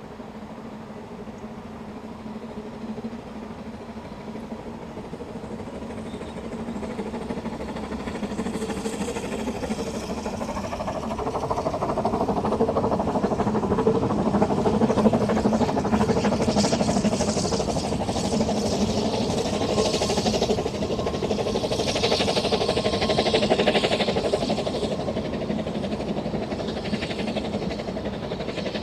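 Narrow-gauge train running on the track, growing louder as it approaches to a peak about halfway through, then easing off slightly.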